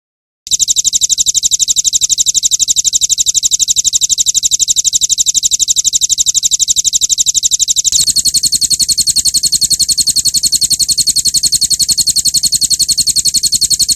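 A recorded rapid, evenly pulsed trill, the kind used as a bird-tutor call. It starts about half a second in, switches to a slightly different, higher pattern about eight seconds in, and cuts off abruptly near the end.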